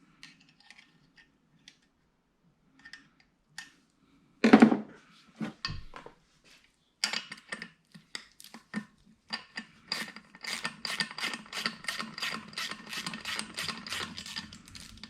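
Metal hand tools working on a B18C cylinder head during valve spring and keeper reassembly. A few light clicks, a knock about four and a half seconds in, then a fast run of ratchet-like clicks, about four a second, over the second half.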